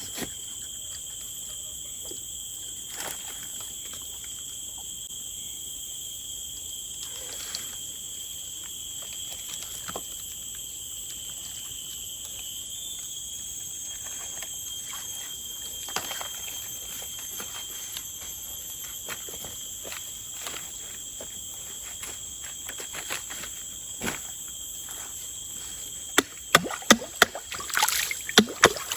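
Steady high-pitched drone of tropical forest insects, with scattered light clicks and rustles. Near the end comes a run of sharp knocks and rustling.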